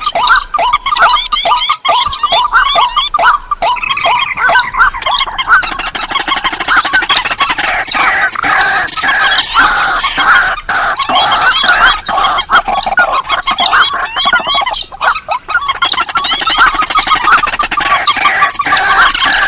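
Recorded lure calls of rice-field and marsh birds, rails and waterhens: a fast even series of short repeated calls, about three a second, that thickens after about four seconds into a dense chorus of many overlapping calls.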